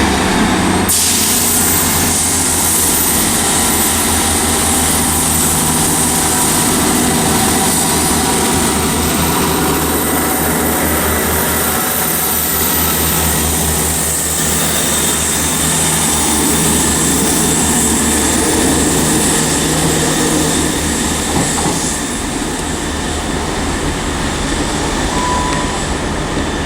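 A Class 158 diesel multiple unit pulling out of a station, its diesel engine running steadily under power with rail and wheel noise. The sound eases off slightly in the last few seconds.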